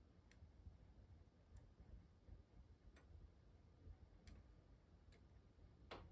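Wood fire in a fireplace crackling faintly: sparse, irregular sharp pops about once a second, the loudest near the end, over a low steady rumble.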